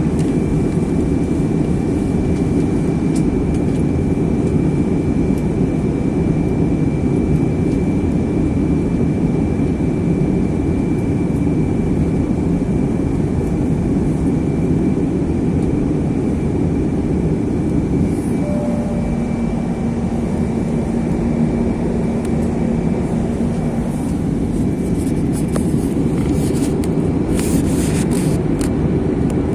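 Steady cabin noise inside an Airbus A321 airliner on approach: engine and airflow rush, with a thin steady whine on top. A low hum joins for a few seconds past the middle, and a few short hissing bursts come near the end.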